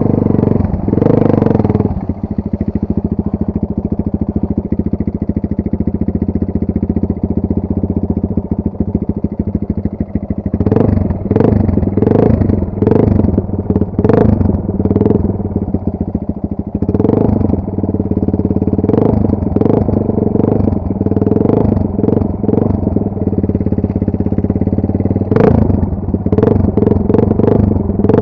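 Chinese enduro motorcycle engine idling steadily. From about ten seconds in, the rider blips the throttle again and again in short revs, with more revving near the end.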